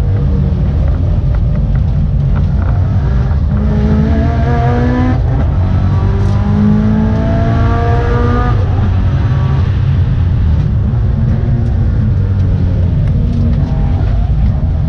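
Subaru Impreza GDA's flat-four engine heard from inside the cabin under hard track driving. It rises in pitch through one gear, breaks off for an upshift about five seconds in, climbs again, then drops back near the halfway point as the driver comes off the throttle.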